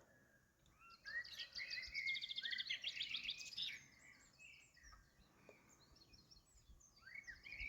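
Songbird singing outdoors: a run of fast, high trilled notes lasting about three seconds, starting about a second in, then a few fainter chirps near the end.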